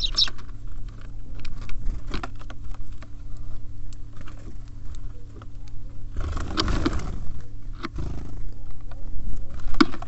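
Small birds at a feeder: a short chirp at the start, then many quick taps and clicks of pecking and hopping. A louder rustling noise about six seconds in lasts about a second, over a steady low hum.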